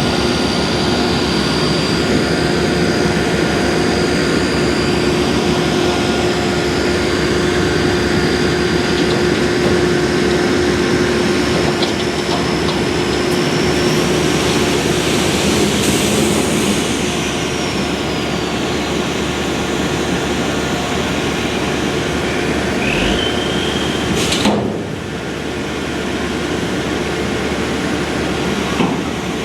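Dump truck running steadily while dumping, a high whine over the engine noise. The whine glides downward about halfway through. About 24 seconds in a sharp knock comes and the sound drops lower and quieter.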